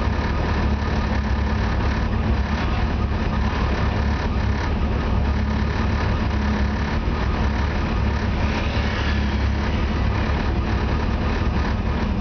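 BMW E30 race car's engine idling steadily, heard from inside the cabin.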